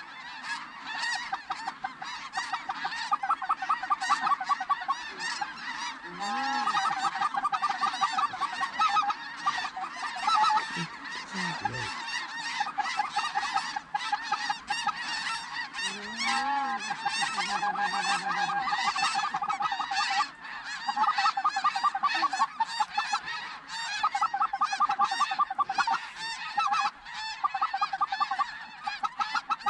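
A large flock of geese honking, with many short calls overlapping in a dense, continuous chorus. A few lower, drawn-out calls stand out about 6 and 16 seconds in.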